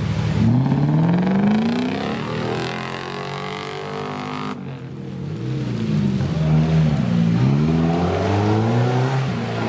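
Off-road competition vehicle's engine revving up and down repeatedly under load, its pitch rising and falling several times, with an abrupt break about halfway through.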